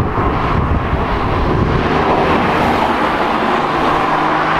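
Porsche 996 Carrera 4S's 3.6-litre flat-six engine as the car drives past, a steady rushing sound; a steady low engine note comes through near the end as the car pulls away.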